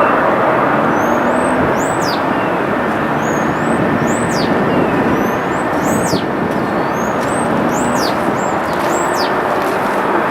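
A steady, loud roar of distant engine noise, with small birds chirping over it: repeated sharp falling calls and short rising chirps about once a second.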